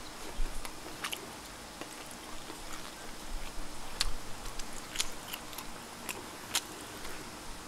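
A person chewing and eating wood-fired duck barbecue close to the microphone: quiet mouth clicks and smacks scattered through the pause.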